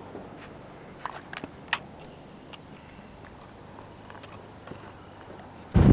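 Low background hiss with a few light clicks about a second in. A sudden loud sound starts right at the end.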